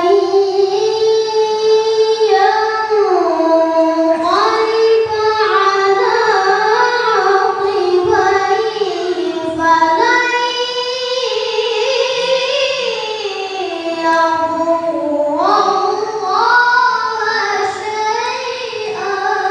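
A young reciter chanting the Quran in melodic tilawah style, in a high voice. He draws out long, ornamented phrases that rise and fall, and the pitch climbs again in the last few seconds.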